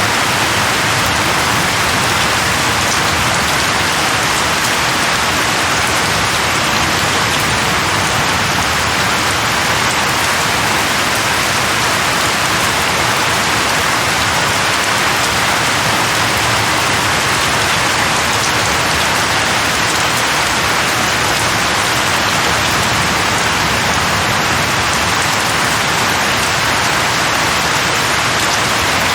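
Steady heavy rain falling and pattering on a surface, an even hiss with no thunder.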